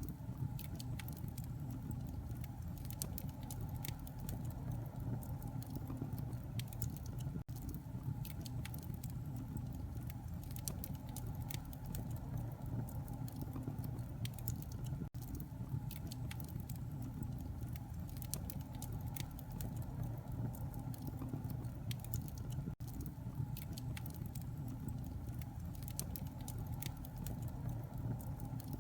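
Wood fire burning in a fireplace, with a steady low rumble and frequent irregular crackles and pops. There is a brief dropout about every seven and a half seconds.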